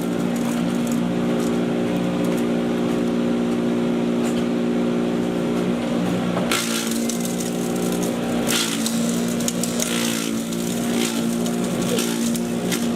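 Patriot 1.5-HP electric chipper shredder running with a steady motor hum, with sharp cracking and snapping as wood is chipped, busier in the second half.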